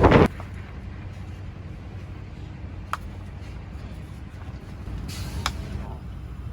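Wind buffeting the microphone stops abruptly right at the start. Then comes a steady low rumble of a road vehicle heard from inside, with a couple of light clicks.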